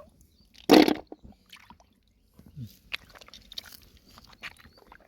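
Hands rummaging in shallow lake water and mud while picking snails and clams: one loud burst a little under a second in, then small wet crackling and clicking.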